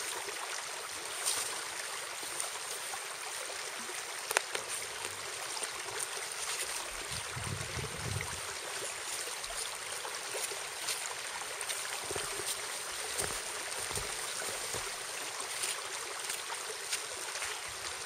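A steady rushing noise like running water, with scattered faint clicks and a few soft low bumps.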